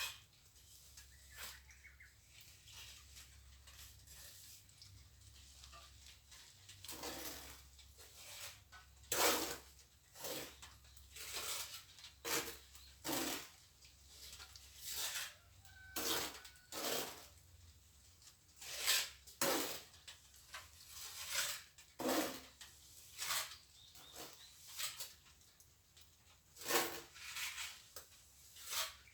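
Plastering trowel working cement mortar: short scraping strokes, at first sparse and from about a quarter of the way in roughly one a second.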